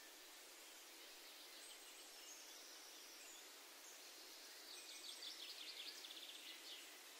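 Quiet outdoor ambience with a faint, rapid, high-pitched trill from a small songbird about five seconds in, lasting about two seconds, and a thinner high call a couple of seconds earlier.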